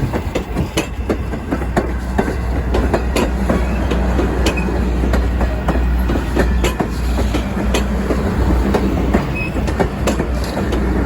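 Railroad train rolling along the track, wheels clicking over the rail joints with a steady low rumble beneath.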